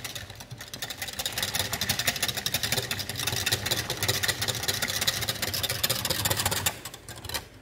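A spoon or whisk stirring hot béchamel sauce in a microwave jug, with rapid, irregular clinking and scraping over a low hum. The sound eases off briefly near the end.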